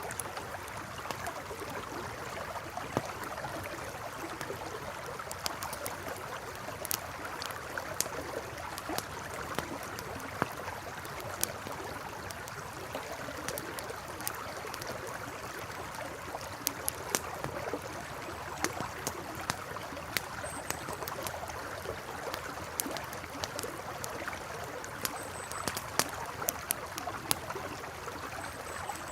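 River water flowing steadily, with a campfire crackling over it in sharp, irregular pops and snaps.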